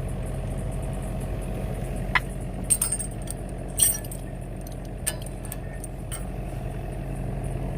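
An engine idling steadily, with about half a dozen sharp metallic clinks and clanks of metal parts being handled between about two and six seconds in.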